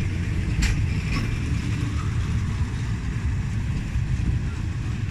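A train rumbling steadily past, with a sharp click about half a second in.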